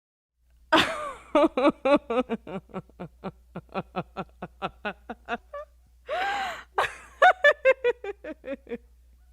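A person laughing hard in a long run of quick, pitched laughs, about four or five a second, broken by a longer rising-and-falling voiced sound about six seconds in.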